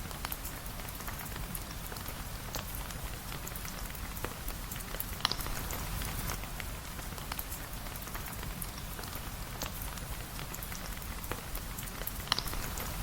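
Steady rain falling, with a constant hiss and a low rumble beneath it and many small drop ticks scattered through it. Two sharper pops stand out, about five seconds in and near the end.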